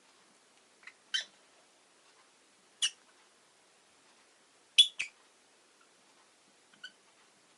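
Rosy-faced lovebird giving short, sharp chirps every second or two, about six in all, the loudest a quick pair about five seconds in.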